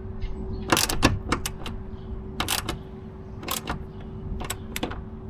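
Irregular sharp clicks and clacks of hand work on truck parts, a dozen or so, some in quick pairs, over a steady low hum.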